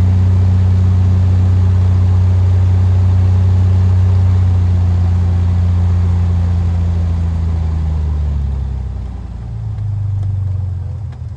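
Cessna RG's piston engine and propeller droning steadily as heard in the cabin. About eight seconds in, the drone drops and shifts, dips briefly, then partly comes back.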